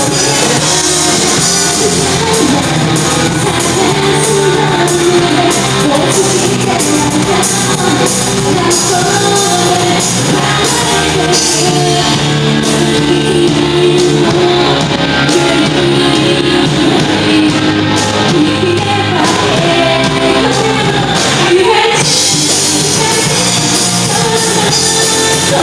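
Live rock band playing loudly in a large hall, with a singer's voice over guitars and drums.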